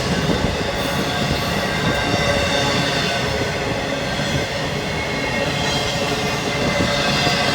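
Freight train cars rolling past in a steady rumble of wheels on rail, with thin high-pitched squealing tones from the wheels over it.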